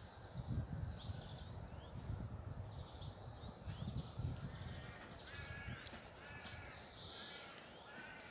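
Birds calling outdoors: scattered short chirps, then from about five seconds in a bird repeating a call roughly once a second. Under it runs a low, gusting rumble of wind on the microphone.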